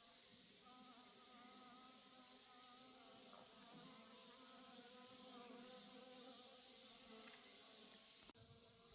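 Faint, steady chirring of insects in a summer garden, with a single click near the end.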